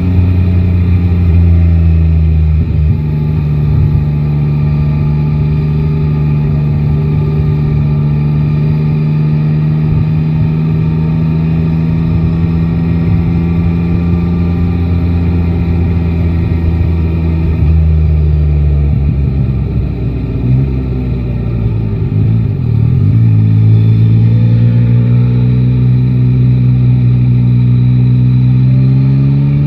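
Motorcycle's three-cylinder engine running at a steady pitch under way, then the revs drop and waver about two-thirds of the way in and climb steadily through the last few seconds as it accelerates again.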